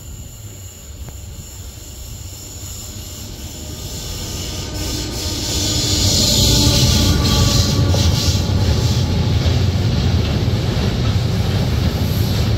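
Slow freight train drawing near and rolling past on electrified track, with tarpaulin-covered coil wagons (Shimmns type). It builds from a low rumble to loud about six seconds in, with a steady whine on top for a few seconds. Then come the wagons' wheels rumbling and squealing on the rails.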